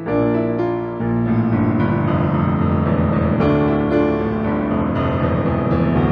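Instrumental interlude of a slow ballad led by piano, playing full, sustained chords. The sound comes in strongly at the start, eases briefly, then swells again about a second in.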